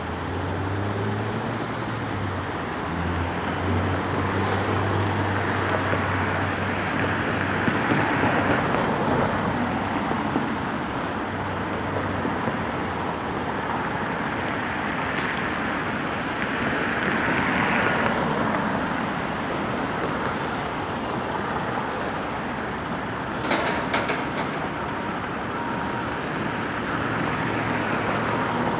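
McNeilus front-loader garbage truck running, its engine and noise swelling twice, with a brief burst of sharp knocks or clatter about 23 seconds in.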